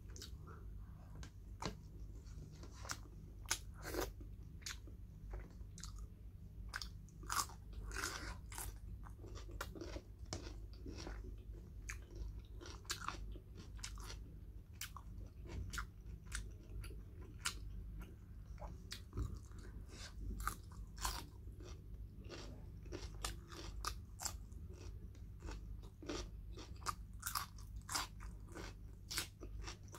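Close-miked eating by hand: chewing and crunching of pork and rice, with many small irregular mouth clicks and smacks over a steady low hum.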